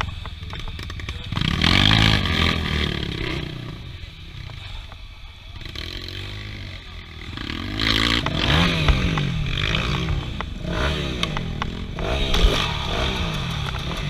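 Off-road vehicle engines revving hard, the pitch rising and falling again and again as they climb and shift, with rattling and scraping from the rough ground.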